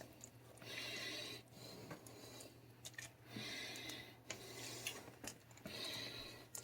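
Spoon stirring thick chicken and dumpling soup in a pot: three soft swishing, scraping strokes about two to three seconds apart, with a few faint clicks over a low steady hum.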